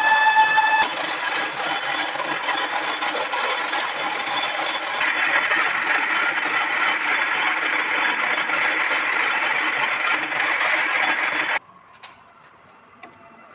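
Metal lathe machining a part: a steady scraping, rattling cutting noise that grows brighter about five seconds in and cuts off abruptly near the end, leaving a few faint clicks. A steady pitched tone stops just under a second in.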